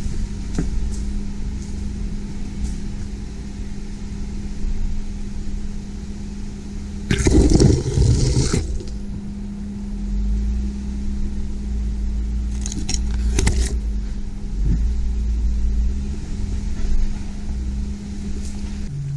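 Off-road vehicle driving slowly over a rough trail, its engine running with a steady hum and low rumble. About seven seconds in there is a loud noisy burst lasting about a second and a half, and a few sharp knocks come around thirteen seconds.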